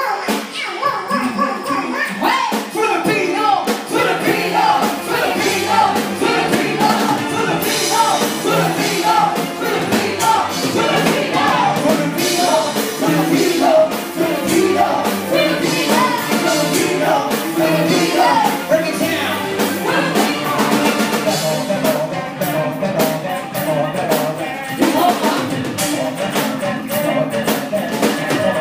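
Live band playing a rock-style song, with a melody line over a steady drum beat.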